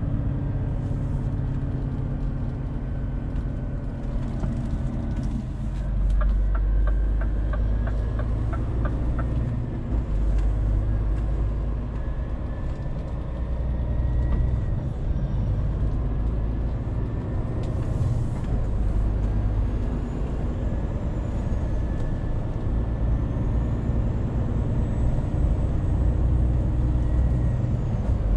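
Scania truck driving along, its diesel engine running with a steady low drone over road noise. A short run of light, regular ticks comes about a third of the way in.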